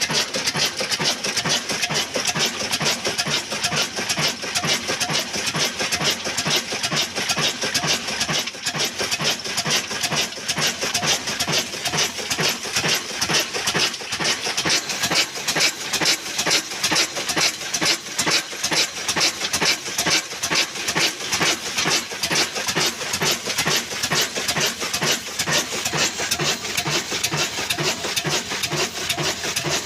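Old black single-cylinder desi diesel engine of the Ruston type, running steadily with an even, rapid exhaust beat, working the flour mill it drives.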